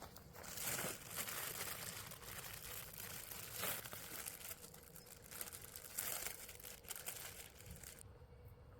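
Rustling, crinkling noise with a few louder swells; its hiss drops away abruptly about eight seconds in.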